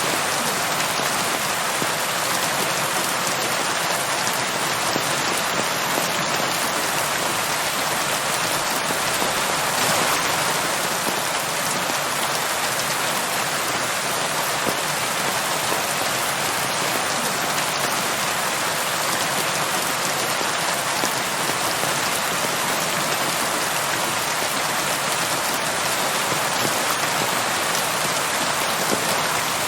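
Steady rain falling on a surface, an even hiss with fine pattering of many drops.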